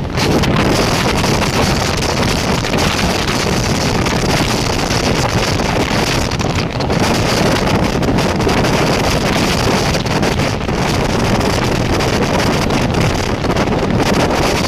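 Passenger train running at speed, a steady rush of wind buffeting the microphone over the train's running noise.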